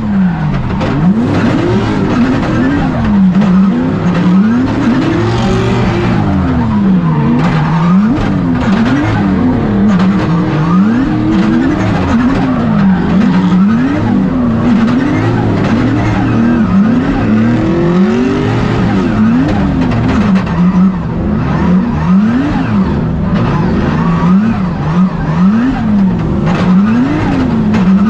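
Drift cars sliding in close tandem, their engines revving up and down over and over, about once every second or two, with tyre noise underneath.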